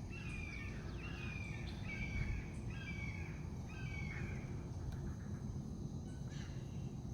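A bird calling, a run of short, slightly falling notes about two a second that stop after four or five seconds, over steady low outdoor background noise.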